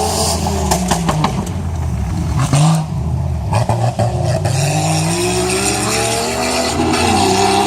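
Jeep Grand Cherokee engine revving hard under load. Its pitch drops about three seconds in and then climbs steadily toward the end. A few sharp knocks come in the first three seconds.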